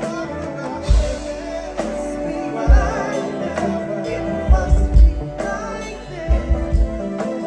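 Live soul band performing a slow ballad, with sung vocal lines over sustained keyboard chords and a heavy bass beat.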